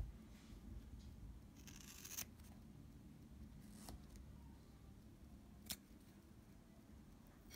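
Faint small clicks and a short scraping rustle from hand work on a Leica II D camera's cloth shutter curtains.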